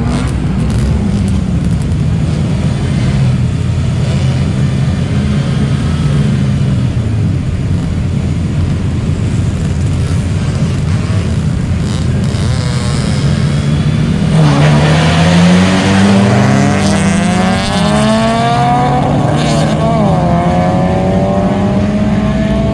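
Car engines idling and blipping, then from about two-thirds of the way in revving up hard in rising sweeps, with the pitch dropping twice at gear changes as the cars accelerate away.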